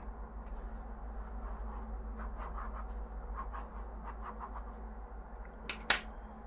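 Faint scratching strokes of drawing by hand on a board or sheet, with one sharp click about six seconds in, over a steady low hum.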